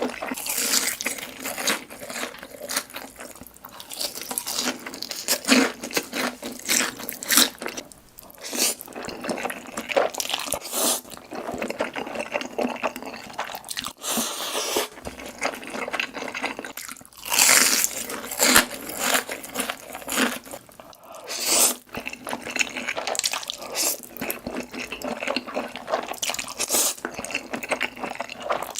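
Close-up eating sounds: a person chewing and biting, with wet, crunchy mouth sounds in an irregular stream of clicks, louder in a few clusters.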